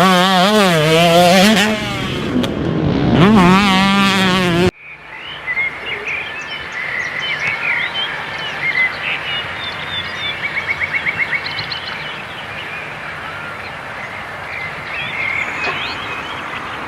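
Two-stroke 125 motocross bike engine (the TC125) revving up and down with the throttle for the first few seconds. It cuts off abruptly, leaving a steady hiss with birds chirping, including a quick trill about eleven seconds in.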